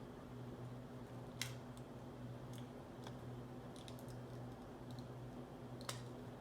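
Small plastic clicks and ticks from a Toyota smart key fob being handled, with two sharper clicks, one about a second and a half in and one near the end, over a steady low hum.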